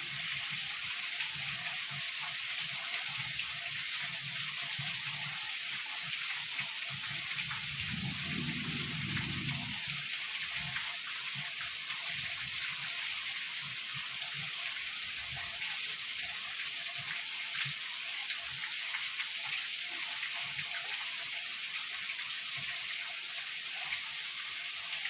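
Heavy rain falling steadily in an even hiss. A brief low rumble of distant thunder comes about eight seconds in.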